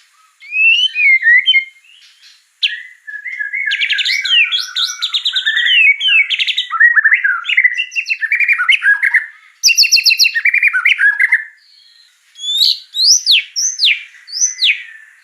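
Songbird song with varied phrases: rapid chattering trills and repeated chip notes, then a run of sharp down-slurred whistles near the end. It is typical of a masteran tutor recording used to train cage birds.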